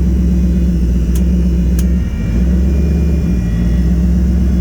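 Nissan VK56 5.6-litre twin-turbo V8 idling steadily just after a cold push-button start, heard from inside the car. Two sharp clicks come about a second and just under two seconds in.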